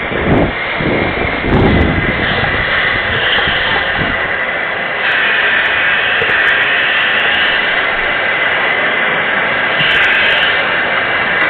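Steady roar of a tropical storm: wind-driven rain, with wind gusts buffeting the microphone in the first two seconds.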